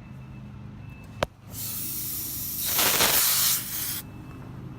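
Refrigerant hissing out of a charging hose as the hose is purged from the liquid side of the refrigerant tank: a sharp click about a second in, then a hiss of about two and a half seconds that swells in the middle and cuts off suddenly.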